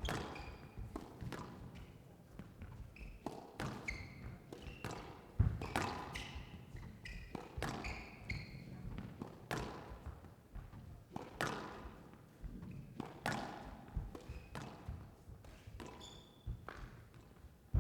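Squash rally: sharp cracks of the racket on the ball and the ball hitting the walls at irregular intervals of roughly a second, with brief high squeaks of court shoes on the wooden floor.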